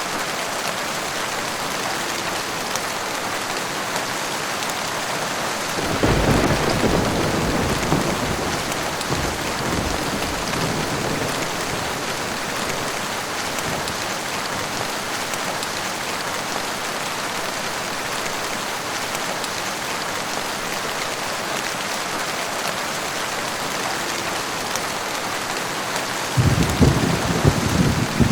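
Steady heavy rainfall, with two rolls of thunder: one rumbling in about six seconds in and fading away over several seconds, another starting near the end.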